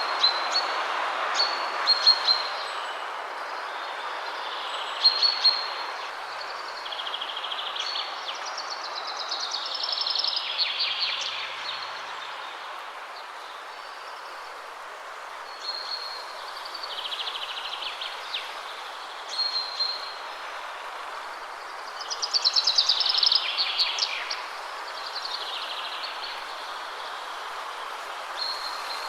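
Wind rushing through trees, swelling and easing, with several songbirds calling over it: short high chirps repeated every few seconds and longer trilling phrases, the loudest trill about three quarters of the way through.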